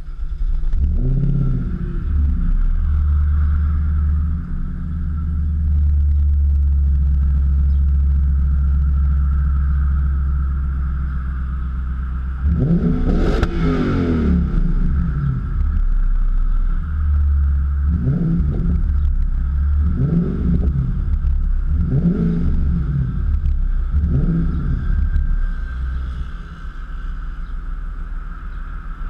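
Infiniti FX50S's 5.0-litre V8 through an ARK aftermarket exhaust, firing up with a brief flare, then idling. About twelve seconds in it is revved once, long and high, and later blipped four times, about two seconds apart.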